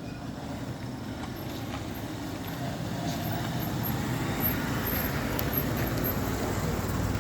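A motor vehicle running, its rumble growing steadily louder as it approaches.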